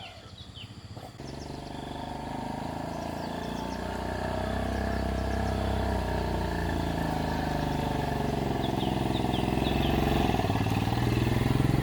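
Yamaha Sirius underbone motorcycle's small single-cylinder four-stroke engine running, coming in about a second in and growing louder. Its pitch eases down through the middle and climbs again near the end. Faint bird chirps are heard over it.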